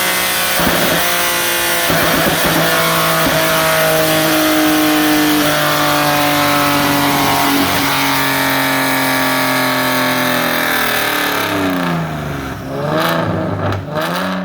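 Nissan 370Z's 3.7-litre V6, with long-tube headers and a cat-back whose mufflers are cut off, revving loudly in a long, slow climb in pitch under load. Near the end the revs drop and rise again twice.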